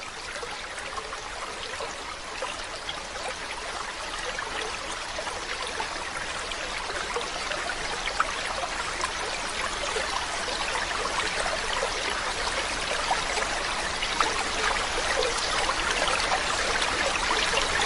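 Running water: a steady splashing rush, like a stream or small waterfall, slowly growing louder.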